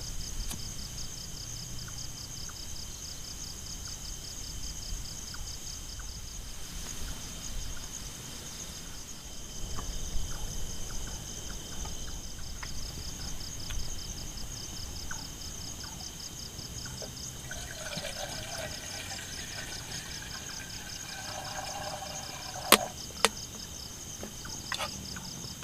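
Steady pulsing buzz of a forest insect chorus, with gusty wind rumbling on the microphone. A couple of sharp snaps come near the end.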